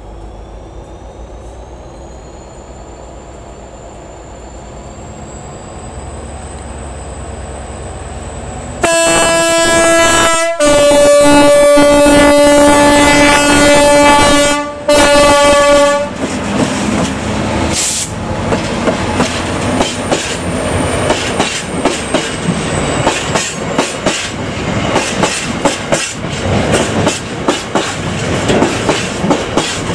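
Class 59 diesel locomotive 59204 approaching, its EMD two-stroke V16 engine growing louder with a rising high whine. About nine seconds in its two-tone horn sounds very loudly: a short higher note, a longer lower note and a brief final blast. The locomotive then passes, followed by loaded stone wagons with a steady clickety-clack of wheels over the rail joints.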